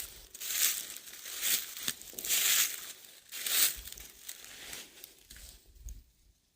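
Footsteps crunching through dry fallen leaves, about one step a second, growing fainter after about four seconds.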